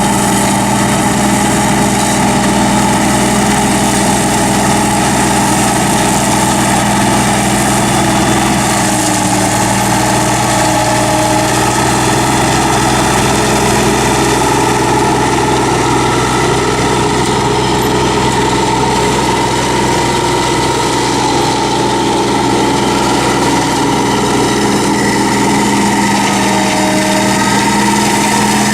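Solis 26 HP compact tractor's three-cylinder Mitsubishi diesel engine running at a steady speed.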